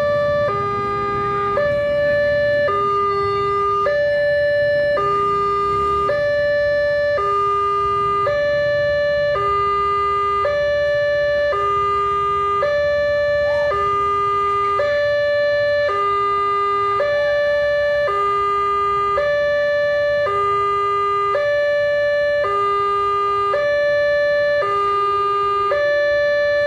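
Railway level-crossing warning alarm sounding, alternating between a high and a low tone about once a second. It warns that a train is approaching and the barriers are closing.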